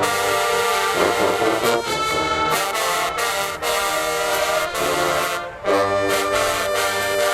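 A college marching band's brass section plays loud held chords in short phrases, with brief breaks between them. About three-quarters through it drops briefly, then comes back in loud.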